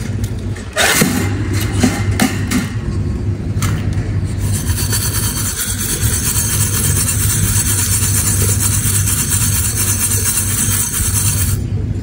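A steady low engine-like hum throughout, with a run of clattering knocks in the first few seconds as the seed bowl is handled at the cage. From about four seconds in a steady hiss joins it and stops suddenly near the end.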